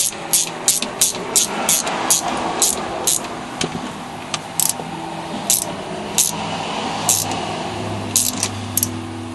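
A series of sharp clicks, about three a second for the first few seconds, then spaced further apart, over faint background music.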